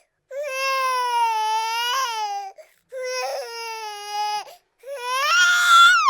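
A high, baby-like voice crying in three long wails, each about two seconds; the last is the loudest and harshest.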